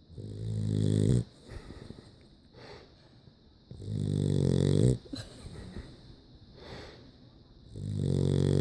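A dog snoring: three long, pitched snores about four seconds apart, each growing louder and then cutting off abruptly.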